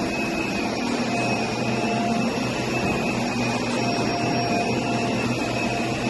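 Vacuum cleaner running steadily over carpet, a constant motor noise with a high whine on top.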